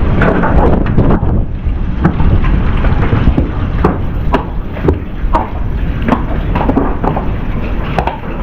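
Strong wind buffeting the microphone, with irregular knocks and rattles throughout.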